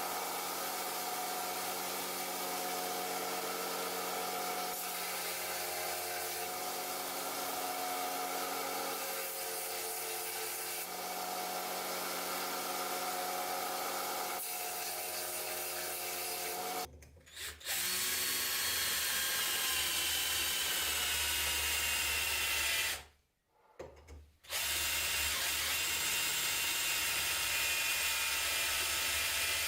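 Small electric power tool running steadily, its motor drawing a constant hum. It breaks off about two-thirds of the way through and resumes with a deeper rumble and some shifting high tones, then cuts out briefly once more before running on.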